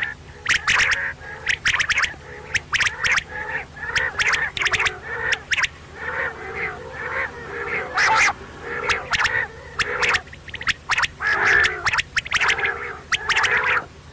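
Quail (batair) calling over and over in quick, clipped bursts, several calls a second with sharp clicky notes, over a steady low hum.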